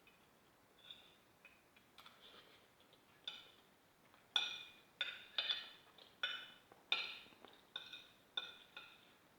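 A metal spoon and fork clinking and scraping against a plate while eating: about a dozen short strikes, each with a brief ringing tone, coming more often from about halfway through.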